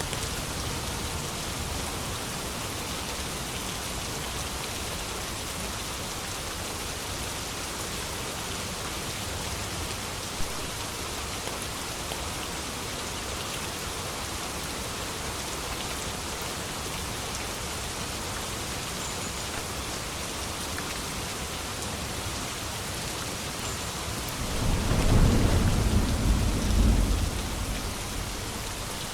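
Steady rain falling. About twenty-four seconds in, a low rumble of thunder swells for about three seconds and fades back into the rain.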